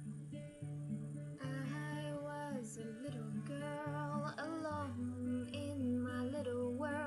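Acoustic guitar playing a picked accompaniment with evenly repeating bass notes. About a second and a half in, a woman starts singing over it, with slow gliding phrases.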